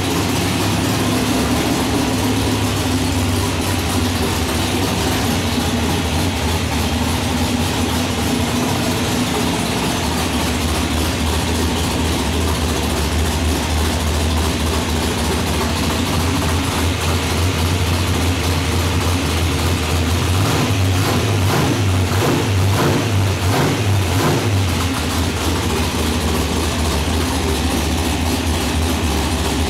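Ford 351 Windsor small-block V8 stroked to 418 cubic inches, idling steadily, with a slightly louder, rougher stretch about twenty seconds in.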